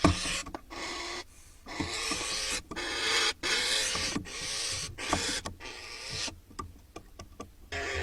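A bird hissing in a run of short breathy bursts, roughly one a second, with brief silences between them.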